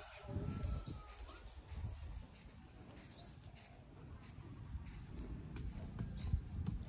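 A few short, rising bird chirps every couple of seconds over a low outdoor rumble.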